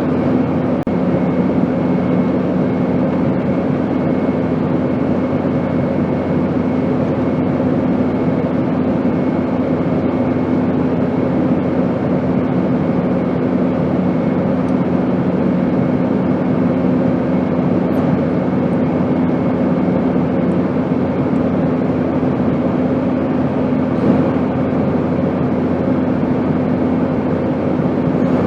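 Airplane engine noise: a steady rushing drone with a constant low hum running through it. One of the hum tones drops away about two-thirds of the way through.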